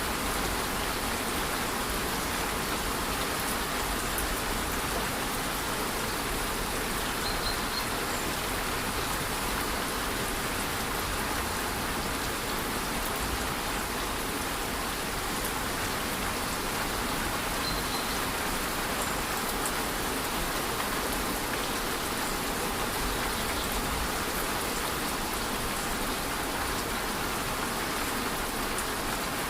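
Steady rush of a rainforest waterfall mixed with light rain: an even, unbroken wash of water noise.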